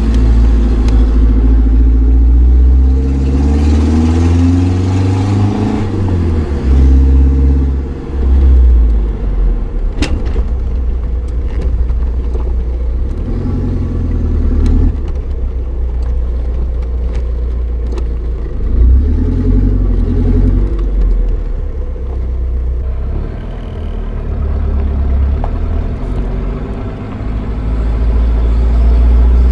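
Opel Frontera 2.3 turbo-diesel four-cylinder engine running loud through a straight-piped exhaust with no catalytic converter. Its note rises in pitch for several seconds, drops off sharply around seven seconds in, then swells and falls again a few times with the throttle.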